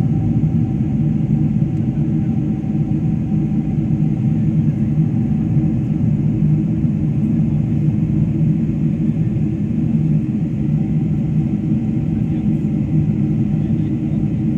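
Cabin noise of a Boeing 747-400 in the climb: a steady low rumble of engines and airflow with a faint constant hum above it.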